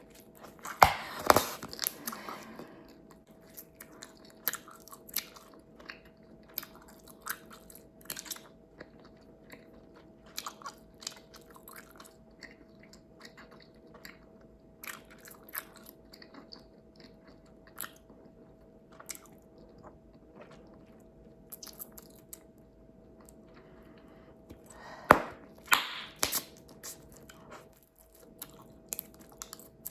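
Bubblegum chewed close to the microphone: a steady run of small wet snaps and clicks, with louder bursts of snapping and popping about a second in and again near the end.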